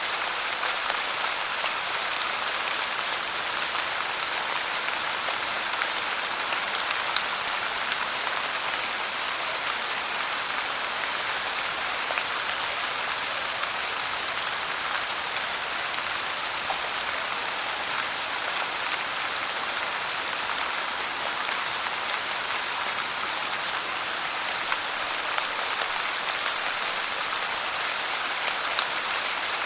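Steady pouring rain, a constant even hiss scattered with the small ticks of individual drops striking a surface.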